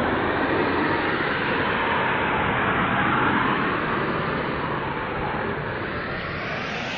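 A steady rushing noise with no tune or voice in it, slowly getting quieter.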